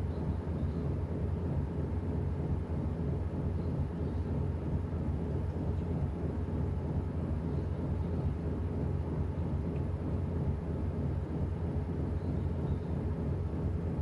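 Washing machine running, a steady low mechanical hum of its motor and turning drum.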